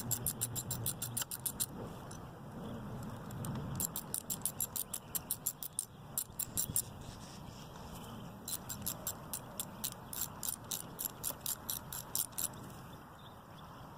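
Ratchet clicking in quick runs of evenly spaced ticks, about four a second, with pauses between. It is backing out the screws of a motorcycle's oil filter cover.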